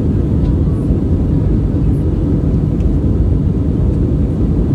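Steady low rumble of engine and airflow noise inside the cabin of an Airbus A320 in flight, with a few faint clicks.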